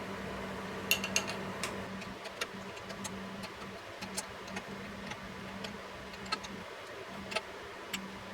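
Irregular light clicks and taps, the sharpest about a second in, over a steady low hum that fades in and out.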